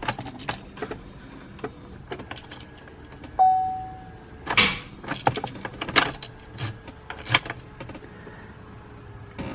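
Hand-tool work on a car's loose negative battery terminal: a string of clicks, scrapes and metal clanks, with one short ringing ping about three and a half seconds in. The terminal connector will not seat tightly, which keeps the car from starting.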